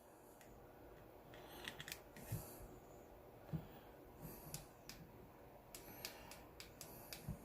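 Near silence broken by a few faint, scattered clicks and handling noises, as of small plastic parts being touched or pressed.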